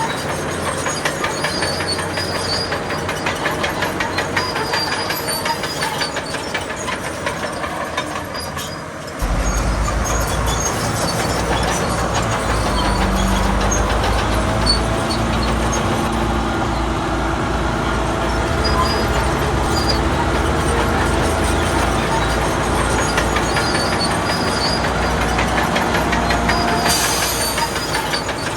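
Bulldozer working: diesel engine running with the steel tracks clattering steadily. About nine seconds in, the engine's deep rumble suddenly gets louder and stays up.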